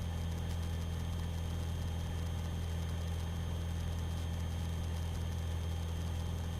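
Aerobatic aircraft's piston engine droning steadily in cruise flight, heard from the cockpit as an even low hum with a faint steady whine above it.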